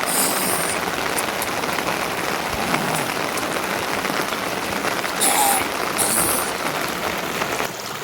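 Steady rain falling, an even hiss throughout, with a few short, sharper hissing spells: about a quarter second in and twice around five to six seconds in.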